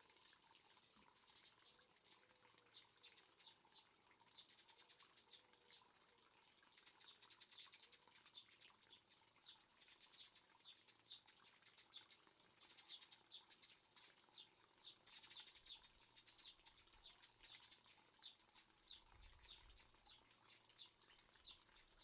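Faint birdsong: small birds chirping and trilling in quick runs of short high notes.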